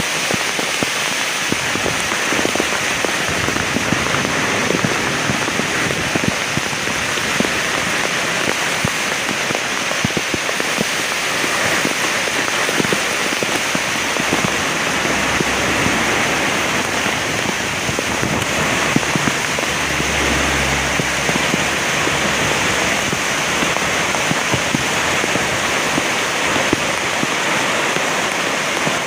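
Heavy rain falling steadily, a dense hiss of drops with many small ticks of drops hitting a surface. About two-thirds of the way through, a low rumble of distant thunder swells briefly under the rain.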